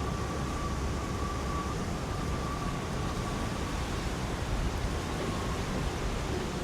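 Steady wind noise with a deep rumble and a faint, wavering whistle over it.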